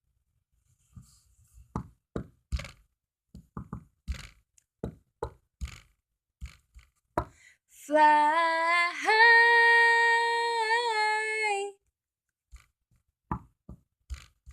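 Unaccompanied voice singing the word "fly" as one long held note, stepping up in pitch about a second in, with scattered knocks and taps before and after it.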